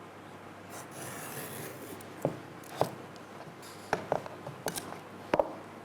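A rasping scrape in the first couple of seconds, then about six sharp, separate taps and knocks.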